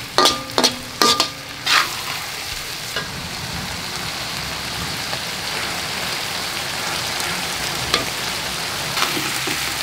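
Chopped pork sisig sizzling in a hot metal pan, with a slotted metal spatula striking and scraping the pan in a few ringing clanks in the first two seconds, then a steady sizzle.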